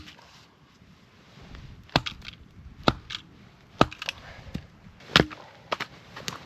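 Wood being chopped: six sharp strikes into wood, about one a second and unevenly spaced, some followed by a smaller crack.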